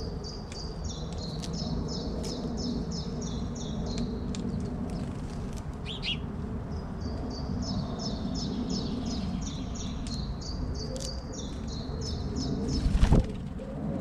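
A songbird singing two long runs of quick, high repeated notes, each lasting a few seconds, with a single short chirp between them over a steady low background rumble. A brief loud rustling thump comes near the end.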